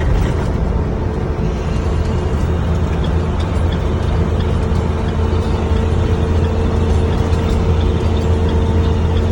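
Box truck driving along, heard from inside the cab: a steady low drone of engine and road noise.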